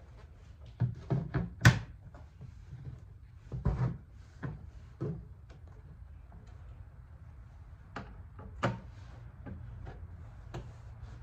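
Plastic center console lid being worked on: irregular clicks and knocks as its hinge is adjusted and the lid is swung and shut, with a quick cluster of the loudest knocks about a second in and more scattered through the rest.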